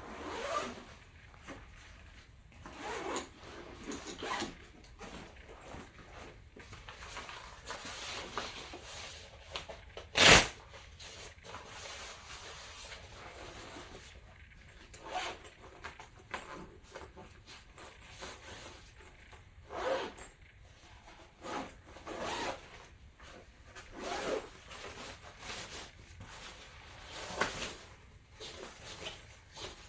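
Zippers on a tomtoc travel backpack being pulled in repeated short rasping strokes, with fabric rubbing as the bag is handled. One sharp knock comes about ten seconds in.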